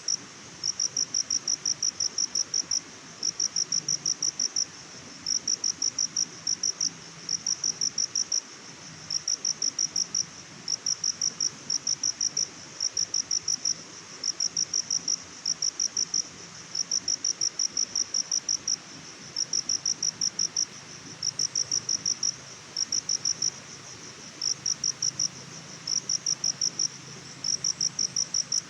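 Cricket chirping in short trains of rapid high-pitched pulses, a train every second or so with brief gaps between them, over a faint steady background hiss.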